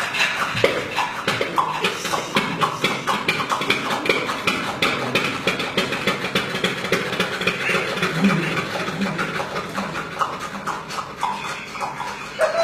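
Lister diesel engine running with a fast, even knocking beat.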